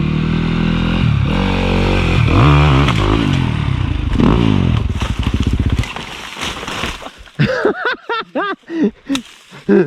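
Enduro dirt bike engine running and revving, its pitch rising and falling, then dropping away about six seconds in, followed by a string of short quick rev blips near the end.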